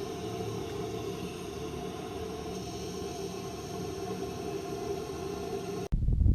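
Steady hiss with a faint constant hum underneath, cutting off suddenly near the end.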